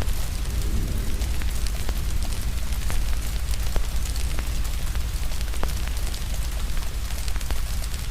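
Steady rain mixed with a crackling fire: scattered sharp pops and snaps over an even hiss of rain and a deep, steady low rumble.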